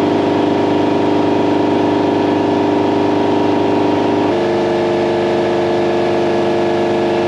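Piston air compressor running with its open intake unsilenced, a loud, steady, harsh pulsing drone that comes mostly from the inlet. Its tone shifts slightly about four seconds in.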